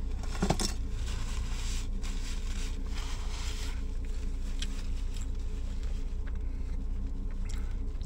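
Paper napkins rustling and being handled in bursts, most of it in the first half, over a steady low hum.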